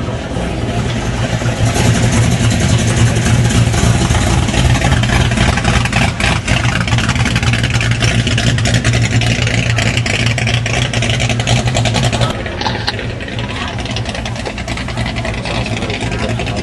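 Car engine running at idle, a steady low hum that grows louder about two seconds in and drops back about twelve seconds in.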